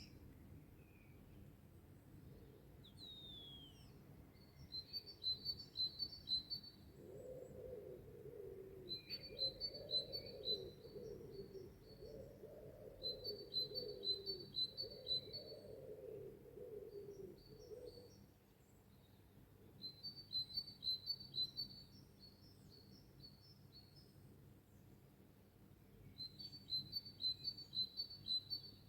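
Wild birds singing: one bird repeats a short phrase of high, quick notes every few seconds, while a lower, wavering call repeats from about seven to eighteen seconds in.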